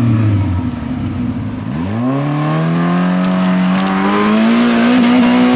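Suzuki 4x4's engine running low at first, then revving up steadily from about two seconds in, its pitch climbing for several seconds before it drops back near the end.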